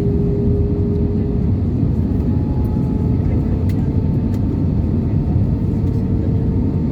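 Steady cabin roar of an Airbus A320-214 in flight, heard from a window seat: rushing air and jet engine noise. A hum in the engine sound shifts slightly higher about two seconds in.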